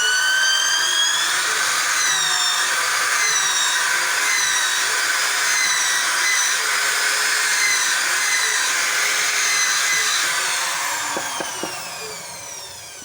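Small handheld electric power tool running on wood, its motor whine dipping in pitch and recovering as it bites. It is switched off about eleven seconds in and spins down with a falling whine, with a few light knocks near the end.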